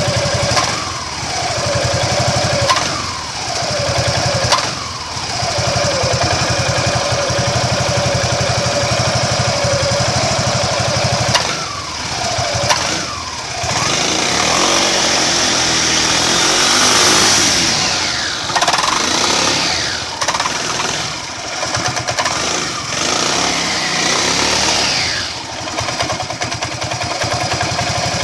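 Suzuki Burgman 400 scooter's single-cylinder engine and CVT drive running, its revs rising and falling several times, with a few sharp clicks. The sound belongs to a drive that judders on pulling away and accelerates weakly since its belt and variator rollers were replaced, with the clutch suspected.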